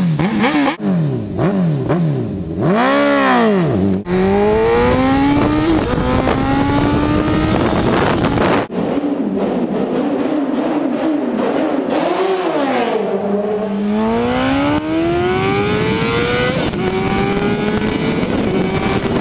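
Supersport motorcycle engine, first blipped up and down three times, then pulled hard through the gears: its pitch climbs, drops sharply at each upshift and climbs again.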